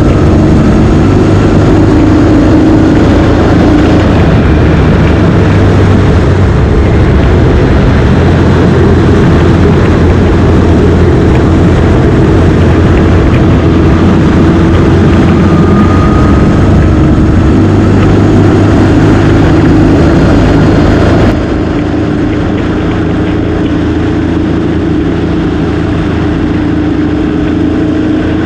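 Motorcycle engine running steadily while riding at speed, with a dense rush of wind and road noise over it. About three-quarters of the way through, the sound suddenly drops a little in level and loses its highest hiss.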